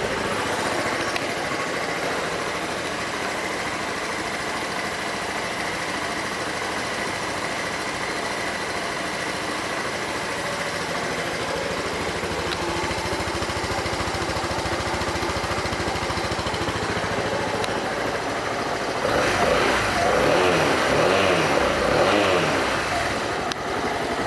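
Suzuki Van Van 200's single-cylinder four-stroke engine idling steadily, then revved up a few times near the end.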